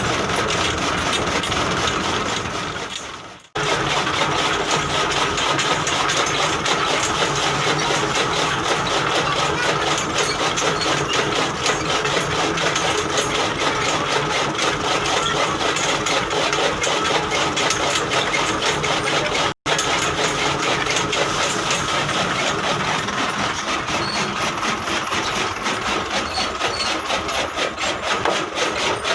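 Massey Ferguson 240 tractor's three-cylinder diesel engine running steadily while it drives a chaff cutter, a dense mechanical din with a fast, even rhythm. The sound breaks off briefly twice, about three seconds in and near the middle.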